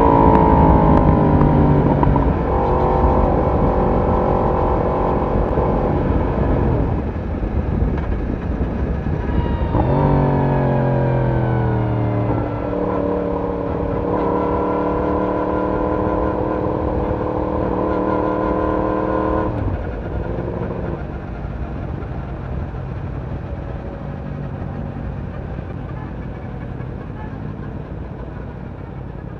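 Yamaha YZF-R1's crossplane inline-four exhaust under way, holding steady revs with a quick shift in pitch about ten seconds in. At about twenty seconds the engine note drops away and grows steadily quieter.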